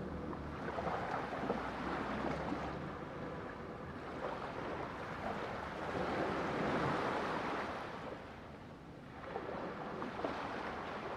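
Ocean waves breaking and washing in a continuous surf, swelling in strength about halfway through and easing briefly before building again near the end.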